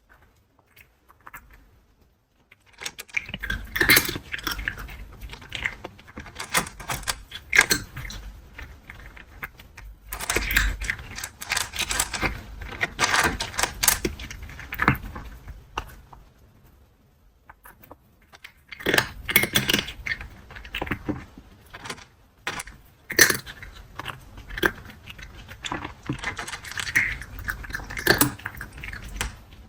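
Close-miked cat crunching dry kibble, with bowl clinks among the crunches. The crunching comes in bouts, with pauses near the start and around two-thirds of the way through.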